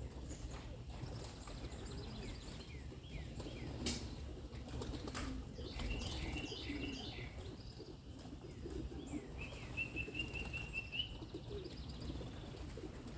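Pigeons' wings flapping with small birds chirping, including a quick run of repeated high notes near the end, over a steady low background rumble.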